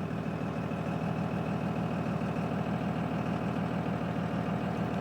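Cummins 5.9-litre inline-six turbo diesel in a 2002 Dodge pickup idling steadily just after a cold start, with no block heater.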